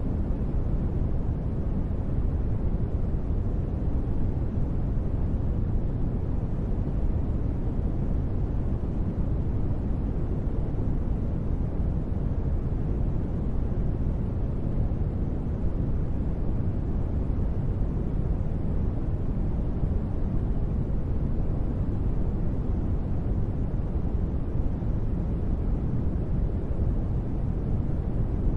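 Steady ambient noise that stays the same throughout, deep and dull, with most of its weight in the low range and little treble, like a low rumble.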